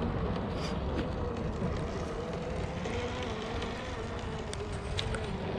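Whine of an RC crawler truck's brushless electric motor and gearbox at crawling speed: a steady tone that wavers and sags slightly with load, over outdoor wind noise and small clicks.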